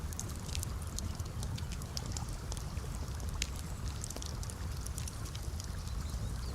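Wood campfire crackling, with frequent small sharp pops and snaps over a steady low rumble of burning.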